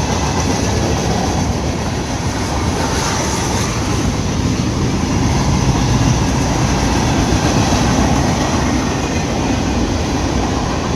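Freight train cars rolling past: a steady rumble of wheels on rail, with no horn.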